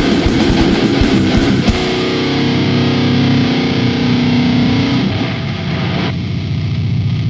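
Heavy metal music: distorted electric guitars and drums play until about two seconds in, then the drums stop and a distorted guitar chord is held and rings out, thinning to low notes near the end of the song.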